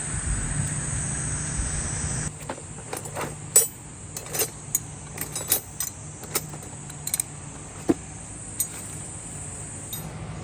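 Irregular light clicks and clinks, a dozen or so spread over several seconds, over a steady high insect drone.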